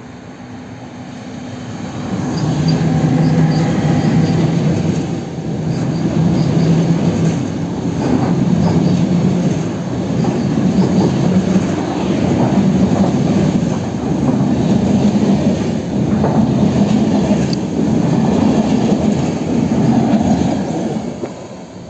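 Passenger train hauled by a Siemens Vectron electric locomotive passing close at speed. Wheel-on-rail noise builds over a couple of seconds, stays loud with a swell and dip about every two seconds as the coaches go by, then fades near the end.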